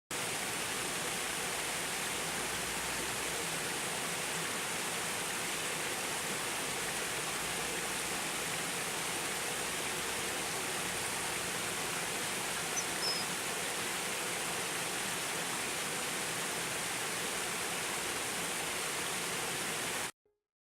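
A steady, even rushing hiss, like running water or a noisy field recording, with two short high bird chirps a little past halfway; the sound cuts off abruptly near the end.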